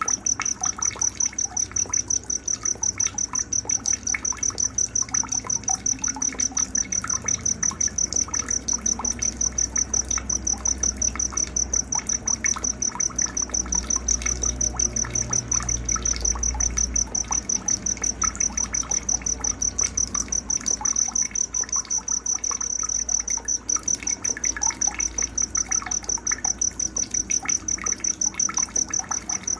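Night nature soundscape: an insect chirping steadily in fast, even pulses at a high pitch, with scattered short bird chirps and a low water-like rush beneath.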